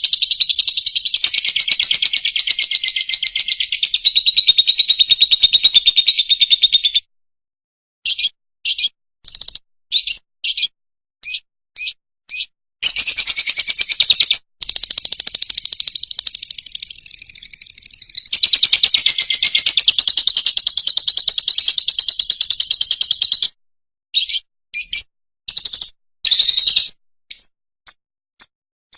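Fischer's lovebird singing: long stretches of rapid, high-pitched chattering trills, broken twice by runs of short, sharp separate chirps, about a third of the way in and again near the end.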